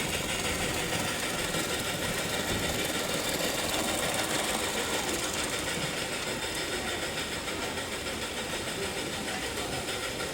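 HO-scale model trains running on the layout: a steady whir of small electric motors and wheels on the track, easing off slightly over the second half.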